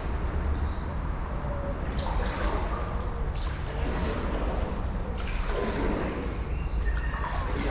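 Paddleboard paddle dipping and pulling through canal water, with splashes and trickling drips every second or two, over a steady low wind rumble on the microphone.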